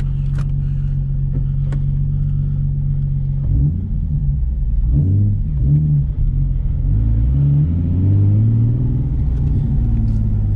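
Turbocharged Nissan 370Z V6 idling steadily, then revving and pulling away, its pitch rising and falling several times as it accelerates. The boost is turned down low.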